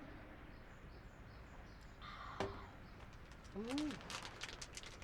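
Quiet outdoor background with a single knock about halfway, then a short hummed "mm" followed by fine crinkling and crackling clicks near the end.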